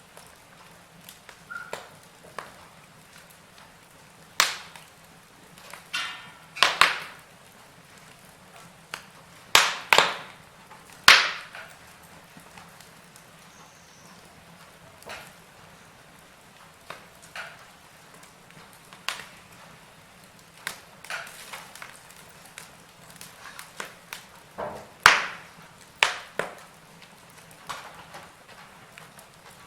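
Wood fire burning in a fireplace, crackling with irregular sharp pops over a low steady hiss; the loudest pops come in a cluster around a third of the way in and again near the end.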